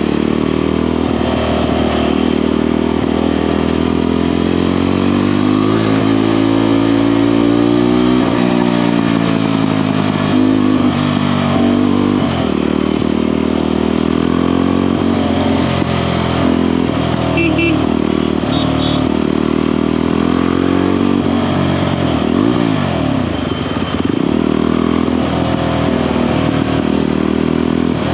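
Motorcycle engine and exhaust under way, the engine note rising through the gears and dropping back at each shift, with a clear shift about eight seconds in.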